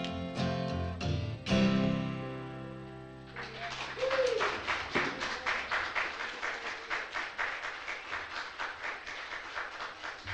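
Acoustic guitar strumming the closing chords of a song, the last chord ringing out and fading, then an audience applauding from about three seconds in, with one short cheer early in the applause.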